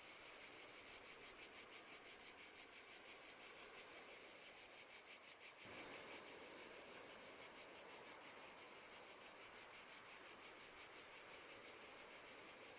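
Crickets chirping in a steady, high, rapidly pulsing trill, faint and continuous, as a nature-sound background.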